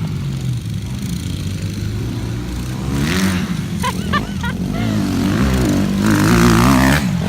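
Small four-stroke pit bike engines revving up and down while being ridden, the pitch rising and falling with the throttle. The loudest rev comes near the end and then drops off suddenly.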